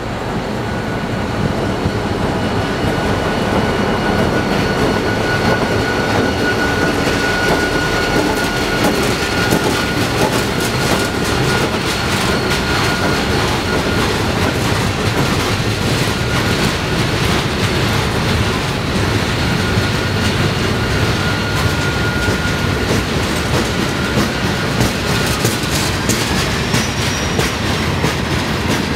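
Slow-rolling CSX freight train's cars passing: a steady rumble with wheels clicking over the rail joints. A thin, steady high squeal comes and goes, and glides up in pitch near the end.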